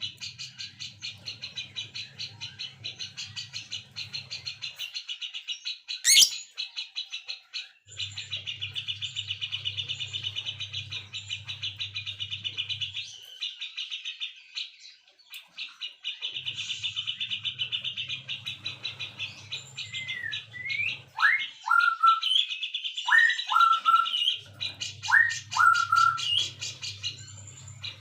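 Songbirds singing: a fast, even trill repeated in stretches of several seconds with short pauses between them. Later, a run of clear whistled notes, each dropping steeply in pitch, comes in over the trill. A single sharp click sounds about six seconds in.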